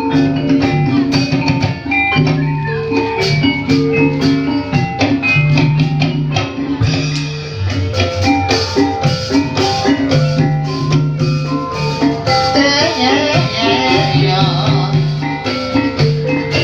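Javanese gamelan-style ebeg accompaniment: struck pitched bars playing quick repeating melodies over drums, with a singer's voice coming in about twelve seconds in.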